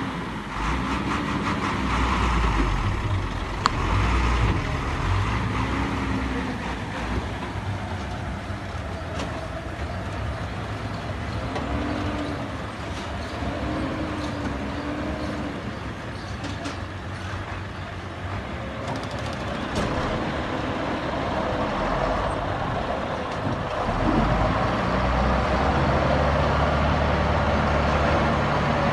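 Heavy diesel machinery running, a steady low engine drone with some wavering in pitch. It gets louder and heavier about 24 seconds in, as an engine works harder.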